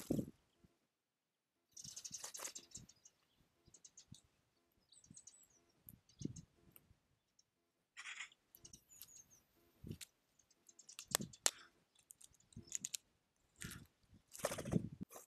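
Small songbirds at a feeding place: irregular pecking clicks and rustles, with a few brief high chirps.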